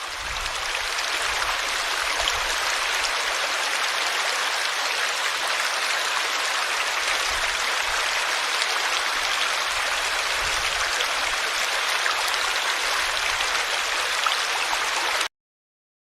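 Forest river flowing: a steady rushing of water with no change in level. It cuts off suddenly near the end.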